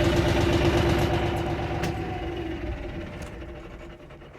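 Farm tractor engine running at a steady idle, its sound fading away gradually over the last couple of seconds.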